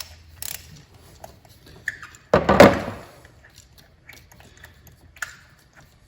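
Hand tools and engine parts being handled in the engine bay: soft clicks and knocks, with one loud clatter about two and a half seconds in that dies away within a second.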